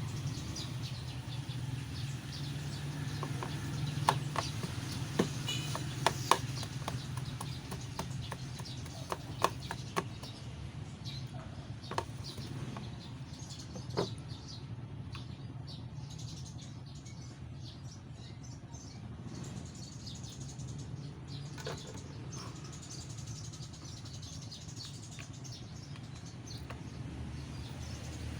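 Crisp snaps and crunches of raw fresh vegetables being bitten and chewed. They come irregularly and are loudest in the first half, then fade to occasional soft clicks over a steady low hum.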